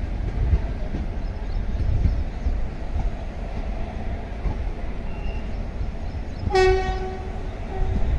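Passenger train coaches rolling slowly past with a steady low rumble. About six and a half seconds in, a locomotive horn sounds for under a second, followed by a short second toot.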